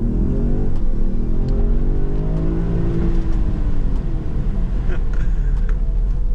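Range Rover Sport plug-in hybrid's turbocharged inline-six petrol engine accelerating hard in Dynamic mode, heard from inside the cabin, its note climbing in pitch through the gears over the first few seconds.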